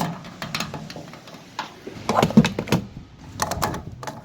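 A string of irregular clicks and clunks from handling a fuel pump nozzle and the truck's filler after the diesel fill has stopped. The loudest knocks come in a cluster about two seconds in, over a low steady hum.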